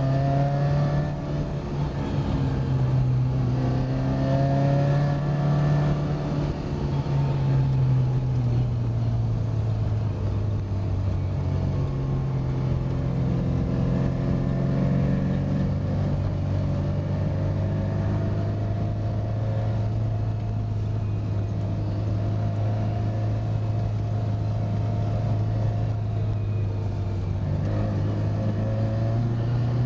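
1966 Mini Cooper S's BMC A-series four-cylinder engine pulling uphill, heard from inside the cabin. Its note rises under throttle and drops back a few times, then holds steady for a long stretch before another drop near the end.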